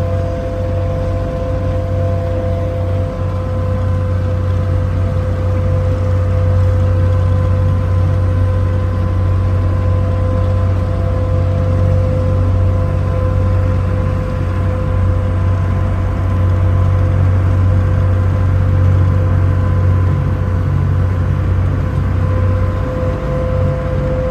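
Boat engine running steadily under way, heard from on board: a constant low drone with a steady whine above it.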